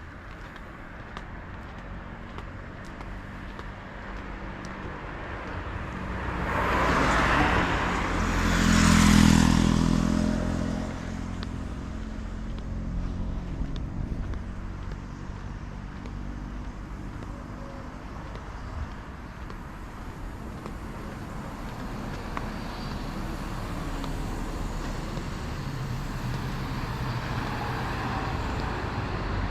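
Street traffic: vehicles passing on the road, the loudest about seven and nine seconds in, with an engine note on the second pass. A steady background of traffic runs throughout, with another vehicle drawing closer near the end.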